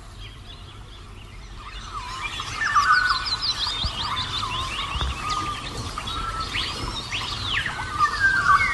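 Small songbirds chirping and twittering, with a quick run of falling notes a couple of seconds in and a few arching calls around seven seconds.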